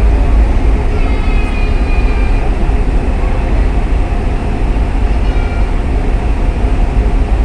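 Steady low rumble of a ferry under way, its engines running. A high voice cuts in briefly about a second in and again about five seconds in.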